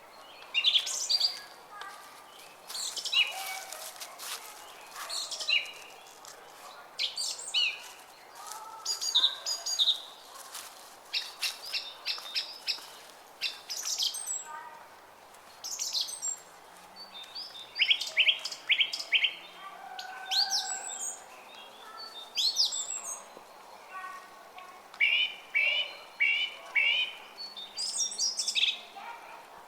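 Several small songbirds chirping and singing in quick, overlapping phrases, some as rapid runs of repeated notes, over a faint steady murmur of a flowing brook.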